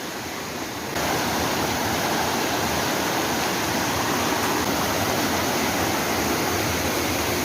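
Rushing river water, a steady dense roar, that jumps louder suddenly about a second in.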